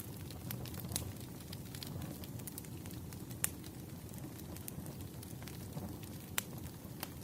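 Wood fire crackling: a steady low rumble of burning logs with scattered sharp pops, the loudest about three and a half seconds in and again a little after six seconds.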